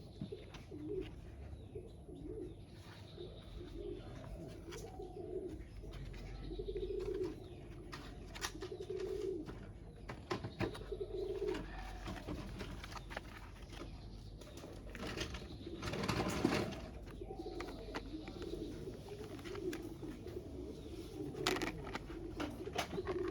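Pigeons cooing over and over in low, warbling phrases, with scattered small clicks and a louder rustling noise about two-thirds of the way through.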